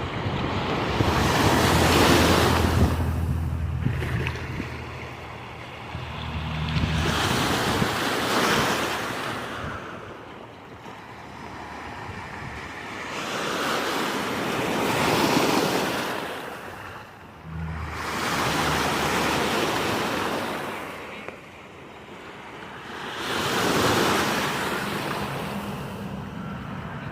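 Ocean surf breaking on the shore, surging and ebbing in about five swells, with wind rumbling on the microphone.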